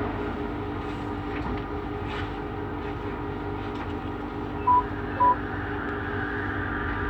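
Inside a Bombardier Innovia Metro 300 train: a steady electrical hum with several held tones, and two short high beeps in quick succession a little past the middle.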